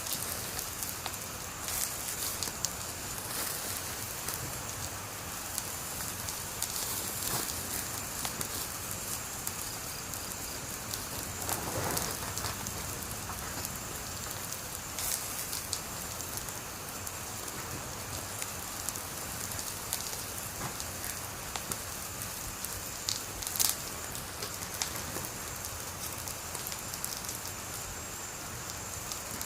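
Wood fire burning, a steady crackle and hiss with scattered sharp pops, one louder pop about two-thirds of the way through.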